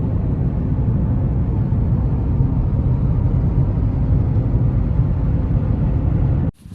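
A loud, steady low rumble that cuts off abruptly near the end.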